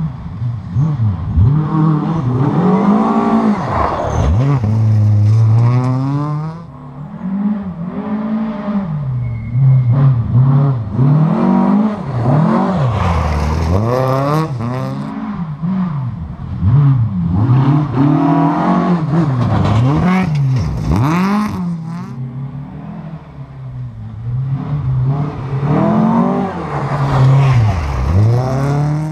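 Rally car engine at full throttle, its pitch climbing and then dropping again and again with gear changes and lifts off the throttle, growing louder and fainter as the car moves along the stage.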